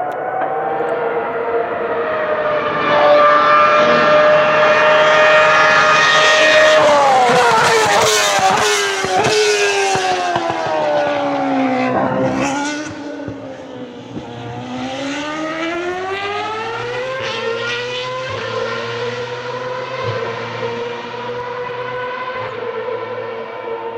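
Ferrari racing car engine at high revs passing by: the note climbs, then falls steeply in pitch as the car goes past. Afterwards an engine note climbs again through a couple of gear changes and holds steady.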